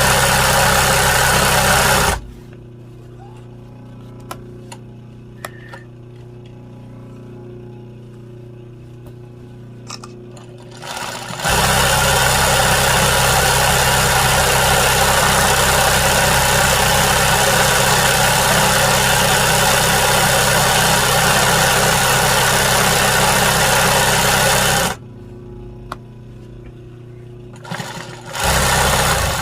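Sewing machine stitching an embroidery in steady runs. It stops about two seconds in, leaving a quiet pause with a few light clicks, then runs for a long stretch, stops again, and starts in two short bursts near the end.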